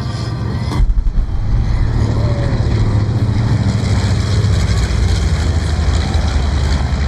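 Piston-engined warbirds flying in formation: a loud, steady low rumble of radial engines that comes in suddenly about a second in, with a brief louder jolt as it starts.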